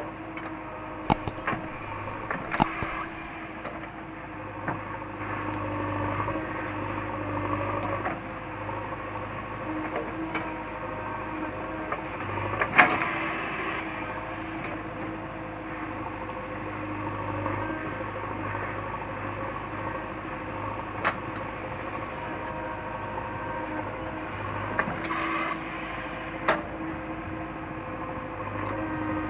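JCB 3DX backhoe loader's diesel engine running steadily while it works, with a few scattered sharp knocks and clanks, the loudest about halfway through.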